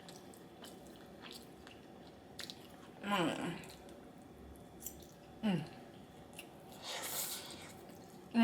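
A person chewing and biting food close to the microphone, with faint wet clicks of the mouth, two short falling hums about three and five and a half seconds in, and a brief hiss near the end.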